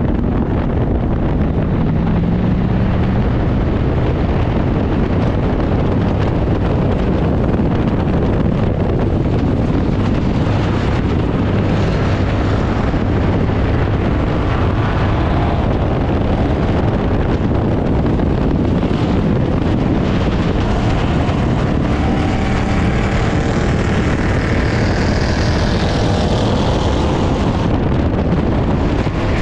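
Ford Crown Victoria race car's V8 engine running hard on track, heard from inside the stripped cabin with heavy wind rush over the microphone; the engine note rises and falls through the laps.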